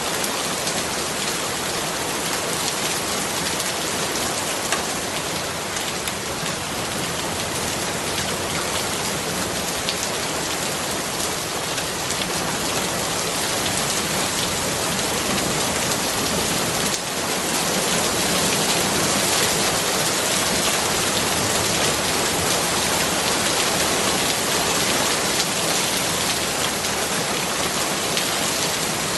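Steady rain falling, a dense even hiss with many fine drop ticks; it grows a little louder a bit past the middle.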